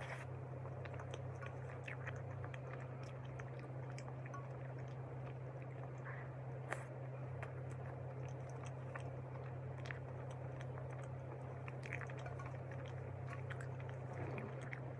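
A person chewing a soft cream-cheese cream bun, with scattered small wet clicks of mouth and food, over a steady low hum.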